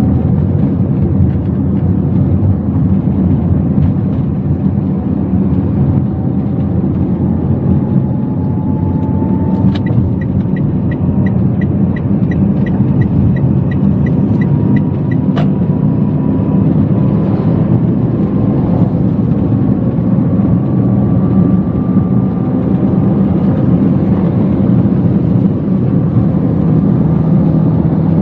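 Inside a Toyota Wigo while driving: steady engine and road rumble, with faint whines slowly rising in pitch. About ten seconds in, a click, then a run of quick, evenly spaced high ticks for about five seconds, ended by another click.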